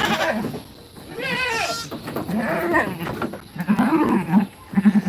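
Goat kids bleating, several wavering calls one after another about a second apart.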